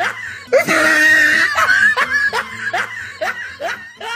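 Laughing sound effect laid over the footage: a run of short falling 'ha' sounds, about two or three a second, repeated as a loop and fading toward the end.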